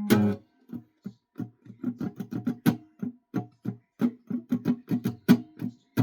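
Guitar picked in short, choppy, separate notes with little sustain, irregular in rhythm, after a held chord dies away at the start.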